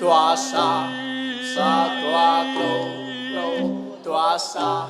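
A voice singing a Bahnar folk song, the melody bending and sliding between phrases, over steady held low accompanying notes.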